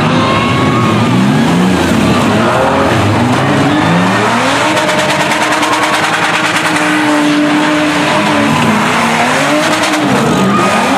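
Several demolition-derby minivan engines revving, their pitch rising and falling and overlapping, one held at steady high revs for a few seconds near the middle.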